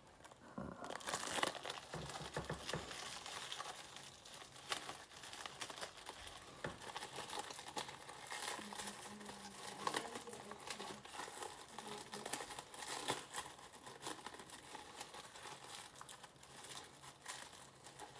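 Packaging being unwrapped by hand: continuous crinkling and rustling with bits of tearing, starting about a second in.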